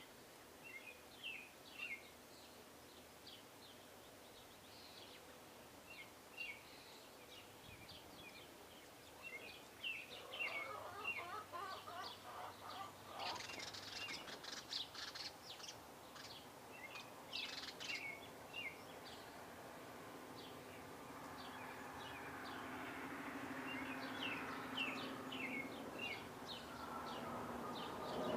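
Small songbirds chirping over and over in short, quick notes, with a busier stretch of chattering near the middle. A rushing noise builds steadily louder over the last third.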